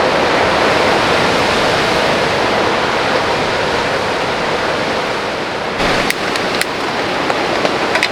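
Heavy rain pouring in a storm, a dense steady hiss. About six seconds in it eases a little and separate large drops tick sharply over it.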